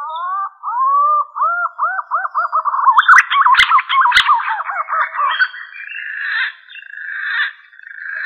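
Green pigeon (punai) song played as a hunting lure call: a series of whistled, arching notes that come faster and louder, then a rougher wavering whistle. Two sharp clicks come about three and a half and four seconds in.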